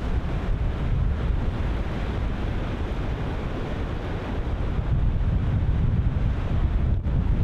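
Ocean surf breaking continuously, with wind buffeting the microphone as a heavy low rumble.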